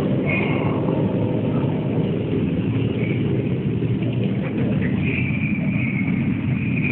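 A steady low engine rumble, with a thin high tone coming and going above it and holding over the last couple of seconds.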